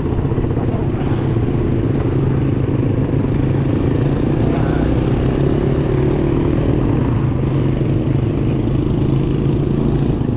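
Steady drone of heavy road traffic, with the engines of motorcycles and other vehicles running close by.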